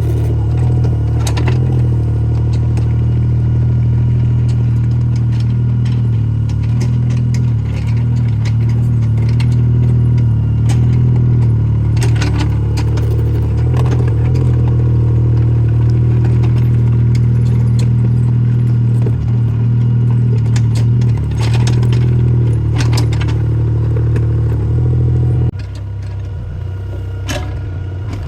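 Mini excavator engine running steadily under work, with scattered clanks and clatter. About 25 seconds in, the engine note drops suddenly to a lower, quieter run.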